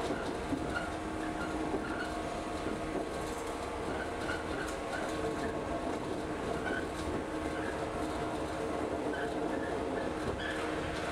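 Local train running, heard from inside the carriage: a steady rumble with a constant hum, and scattered short high squeaks.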